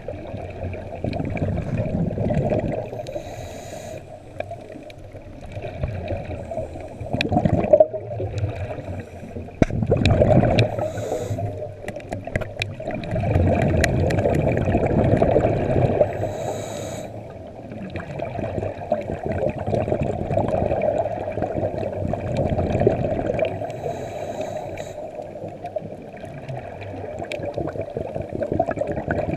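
Scuba diver breathing underwater through a regulator: exhaled bubbles gurgling and rushing, swelling and fading every few seconds in time with the breaths.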